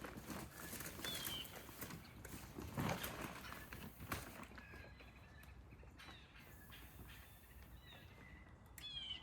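Footsteps and scattered light knocks and clatter, with a few short high chirps.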